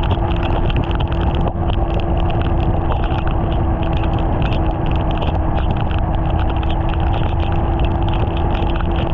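BMW S1000RR's inline-four engine running at a steady speed, its pitch holding level, under heavy wind noise on the microphone.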